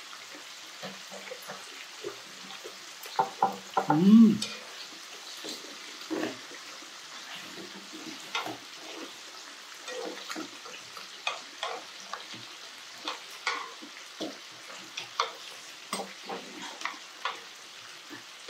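Close-up eating sounds: chewing and mouth smacks on a mouthful of rice and grilled duck, with light clicks of chopsticks and spoon against the bowl scattered throughout. A short, loud voiced grunt, rising then falling in pitch, comes about four seconds in.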